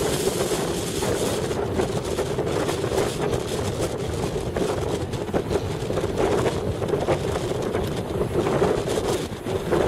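Strong wind buffeting the microphone in gusts, over a steady engine drone.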